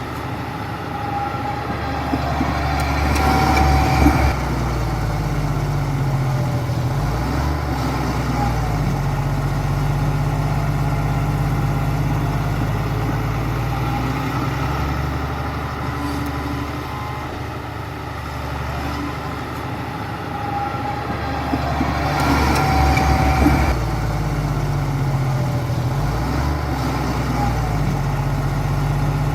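Bulldozer's diesel engine running steadily, its pitch shifting as it works, with two louder stretches about three seconds in and again about twenty-two seconds in.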